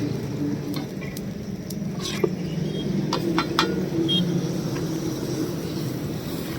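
Steady low hum of running vehicle engines, with several sharp metal clinks of cooking utensils about halfway through.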